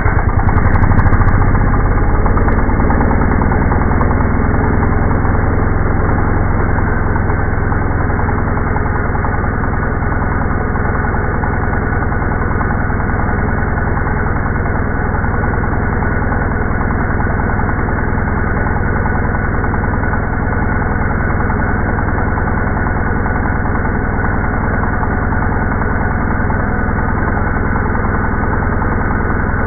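Two-stroke engine of an ECHO EDR2400 engine drill running steadily, a little louder in the first couple of seconds before settling to an even drone.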